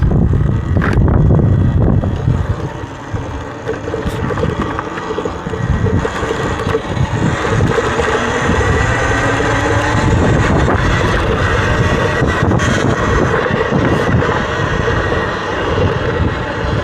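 Wind buffeting the microphone while a Talaria electric dirt bike is ridden along a trail. Under the rumble, the motor's whine shifts in pitch with speed, and there are a few knocks over rough ground.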